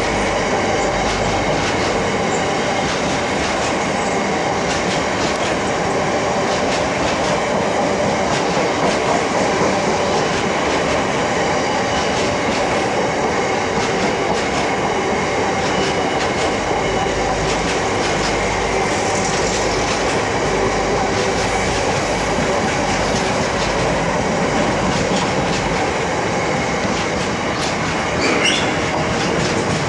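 Empty bogie tank wagons of a long freight train rolling past: a steady rumble of wheels on rail with a regular clickety-clack over the joints. A short high squeal comes near the end.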